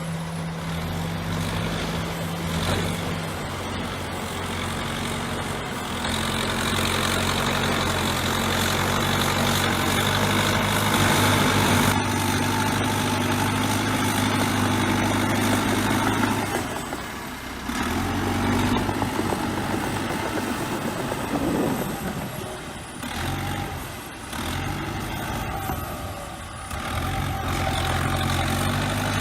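Bulldozer's diesel engine working, its pitch and loudness changing with the load. It eases off briefly about two-thirds of the way through and a few more times near the end.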